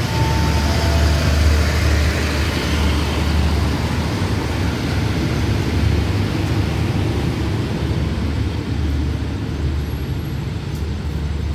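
Passenger coaches of an express train rolling out past the platform, a steady low rumble of wheels on rails that eases off slightly near the end as the last coach goes by.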